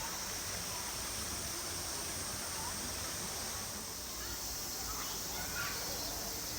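Steady outdoor hiss of a riverside, with a few short bird chirps about two and a half and five and a half seconds in.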